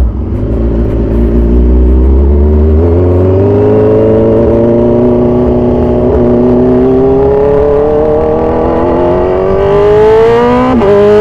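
Kawasaki Z1000 Sugomi's inline-four engine, through an aftermarket exhaust, pulling steadily up through the revs in one gear for several seconds. An upshift near the end drops the pitch, and it climbs again.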